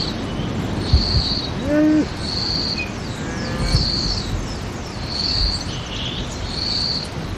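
Outdoor rural ambience: a short high chirp repeats about every second and a half, with a few faint falling chirps and a brief low call about two seconds in.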